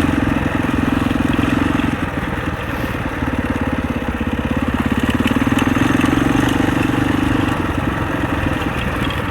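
Husaberg 650 enduro dirt bike's single-cylinder four-stroke engine running under throttle. It eases off about two seconds in, then builds again and drops back near the end.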